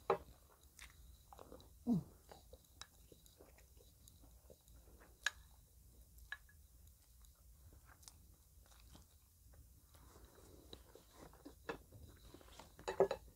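Close-up eating sounds: chewing and soft mouth clicks as food is spooned from a small ceramic bowl with a wooden spoon. About two seconds in there is a short sound that falls in pitch, and a cluster of sharper clicks comes near the end.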